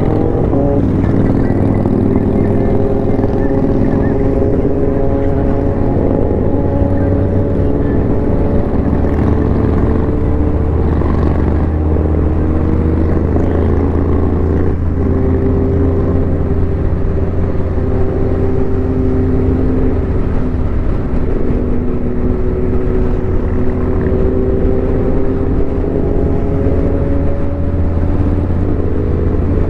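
Motorcycle engine running on the move, its pitch slowly falling and rising with the throttle over a steady low rumble.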